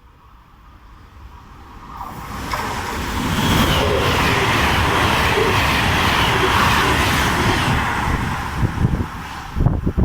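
Train passing through the station at speed: a rushing roar that builds over the first few seconds, holds loud in the middle, then eases off, with a few low thumps near the end.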